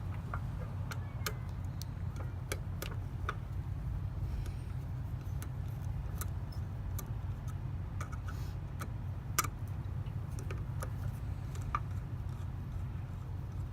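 Scattered light clicks and ticks of hands working stripped copper wire and small tools, irregular, with a louder click about nine seconds in, over a steady low rumble.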